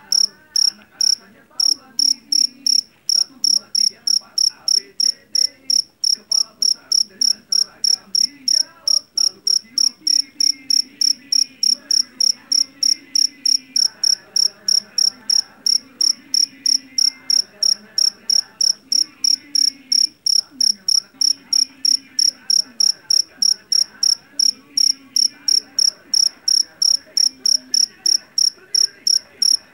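A jangkrik jeliteng (Javanese field cricket) calling: loud, evenly spaced chirps, about three a second, on one high, shrill tone.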